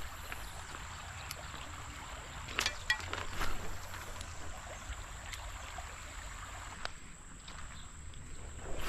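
Shallow creek water running, with a few brief splashes and knocks, loudest a little under halfway through and again near the end. A faint steady high tone runs underneath.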